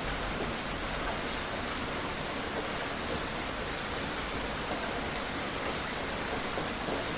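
Gentle steady rain falling on surfaces, an even hiss with faint scattered drop patter and no thunder.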